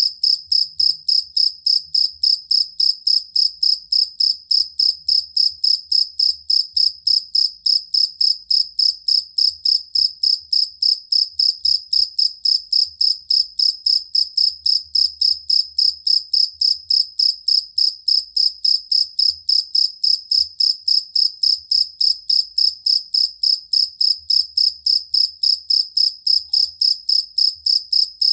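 A cricket chirping steadily: one high, bright note repeated in evenly spaced chirps, several a second, without a break.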